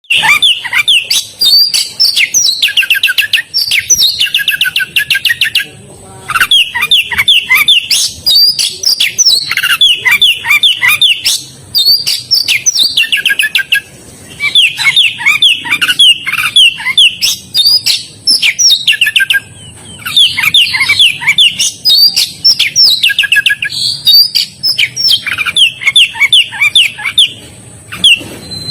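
Oriental magpie-robin (kacer) singing loudly in long phrases of rapid, quick-sweeping high notes, with short pauses every four to six seconds. It is singing 'gacor', in full and constant voice, the sign of a bird in top singing form.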